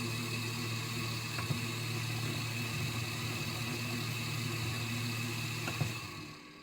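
Small 50 mm (5015) radial blower fan running at speed: a steady whir over a low hum, with a couple of faint clicks, fading away near the end.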